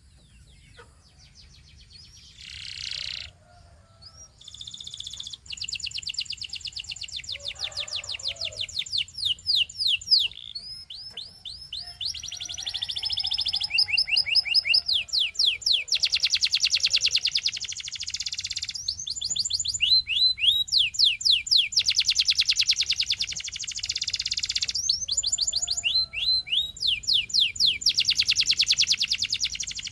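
Canary singing rapid rolling trills of fast-repeated high notes, switching from one trill pattern to the next every second or two. The song is sparse for the first few seconds, then runs almost without a break from about five seconds in.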